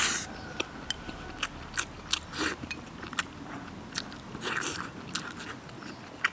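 A person chewing mouthfuls of rice with soft, long-stewed beef and radish, eaten from a bowl with chopsticks, with many short sharp clicks.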